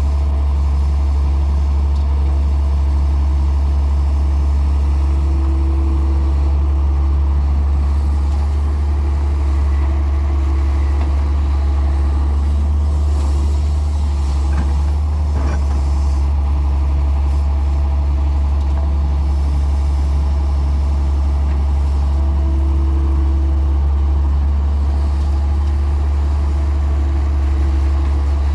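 Heavy diesel engine running steadily with a deep, even hum. A higher tone rises over it twice, for a second or two each time.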